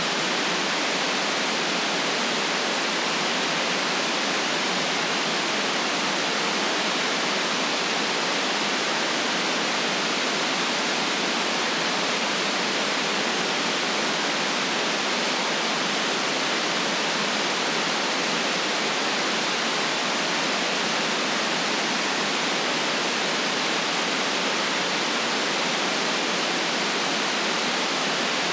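Steady, unchanging synthetic white noise: an even hiss with no events in it.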